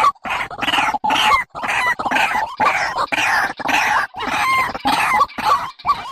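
Bird calls: a rapid series of harsh, noisy calls, about two a second, with a few short clearer notes mixed in.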